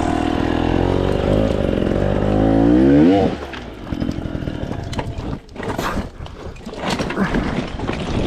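300 cc two-stroke dirt bike engine running, then revving with its pitch climbing sharply before it cuts out abruptly about three seconds in. After that come scattered knocks, scrapes and rattles.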